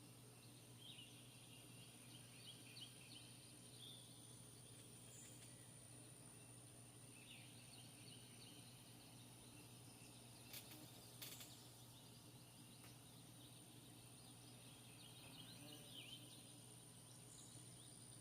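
Near silence: faint outdoor ambience with scattered distant bird chirps, a steady thin high-pitched tone and a low hum underneath, and two sharp clicks about ten and eleven seconds in.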